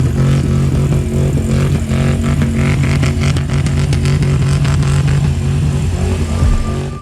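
Lifted pickup truck's loud exhaust, the engine running and revving up and down.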